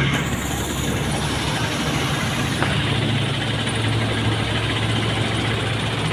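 A vehicle engine running steadily at low revs, with a steady rushing noise beneath it.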